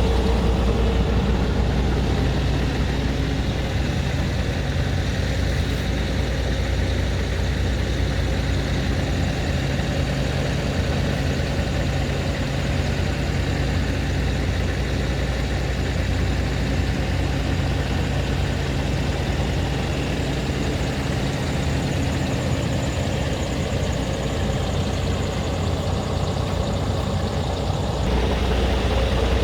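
Scania R tractor unit's engine idling steadily, a low, even hum.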